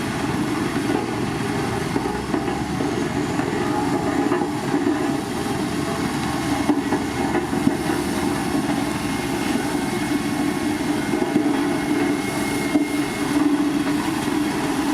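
Heavy road-building machinery running steadily: a diesel engine under load with a constant low hum and scattered light clanks.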